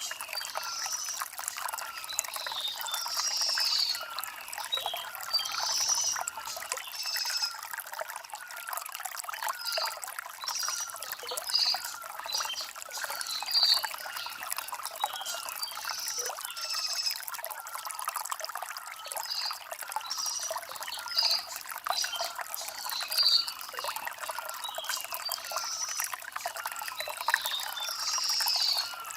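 Shallow stream trickling and babbling steadily over river stones, with short high bird chirps recurring every second or two.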